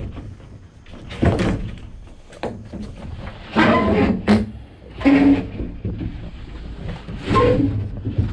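Plywood hull forms scraping and knocking against each other and the wooden platform as they are shoved along it, in four or five separate pushes.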